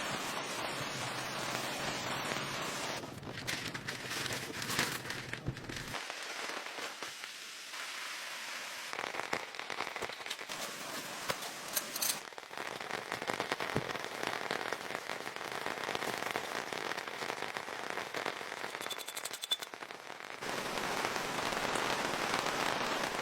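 Rain falling steadily, with many close drops hitting a surface in sharp, crackling taps.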